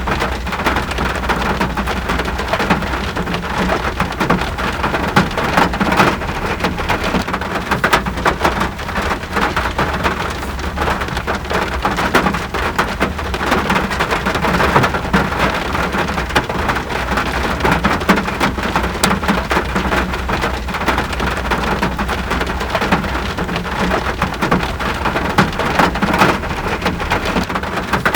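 Steady rain falling, a constant hiss with many sharp, close drop hits scattered through it, over a steady low rumble.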